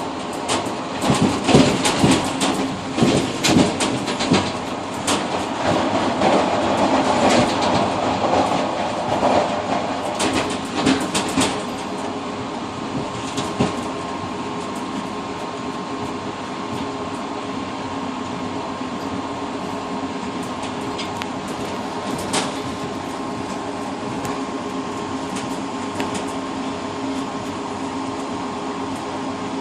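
Passenger train running, heard from inside the rear car's cab vestibule. For about the first twelve seconds the wheels clatter and knock over rail joints or switches. After that the ride settles into a steady rumble with a low hum and a higher hum running through it, broken by a single sharp knock a little past the twenty-second mark.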